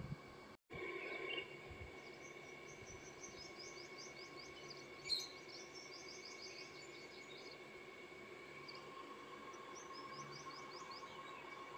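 Faint outdoor ambience: a small songbird sings two runs of quick, high, repeated chirps, over a steady faint hum.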